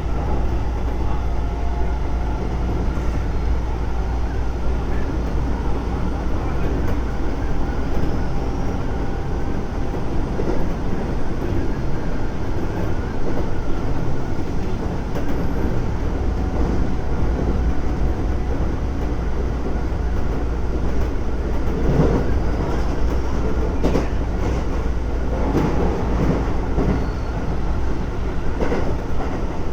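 Keisei 3400 series electric train running at speed, heard inside the car: a steady rumble of wheels and motors with a faint whine in the first part. Clusters of rail-joint clicks come about 22 seconds in and again near the end.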